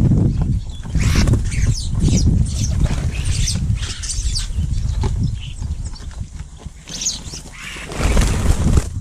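Garden birds calling in short, sharp chirps over a heavy low rumble of wind buffeting the microphone, which surges loudest about a second in and again near the end.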